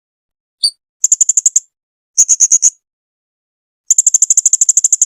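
Blue-crowned hanging parrot (serindit) calling: a single high note, then three rapid trains of high-pitched chips at about a dozen a second, the last and longest running over a second.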